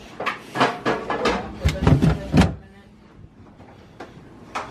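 Kitchen clatter: a quick run of knocks and clicks, some with a dull thud, over the first two and a half seconds, then two more clicks near the end.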